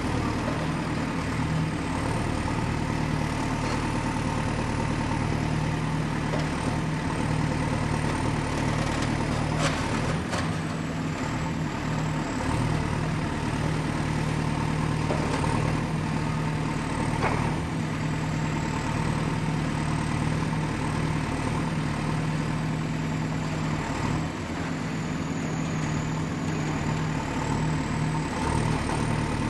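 Excavator's diesel engine running steadily, with a faint high whine that wavers slowly in pitch and a few sharp knocks about ten and seventeen seconds in.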